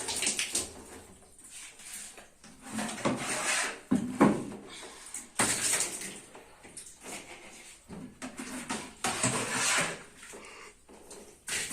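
Irregular clattering and rustling of household items being handled, with a few sharp knocks.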